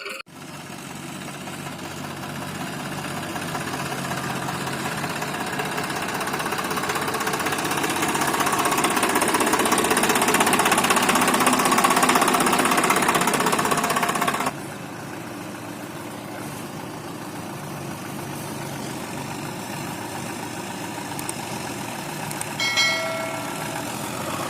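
Tractor diesel engines running hard under load, growing louder over the first dozen seconds, then dropping suddenly to a quieter, steadier running about halfway through. Near the end there is one short high-pitched tone.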